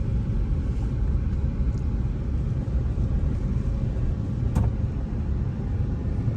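Steady low rumble of a car driving along a rough road, heard from inside the car, with a single click about four and a half seconds in.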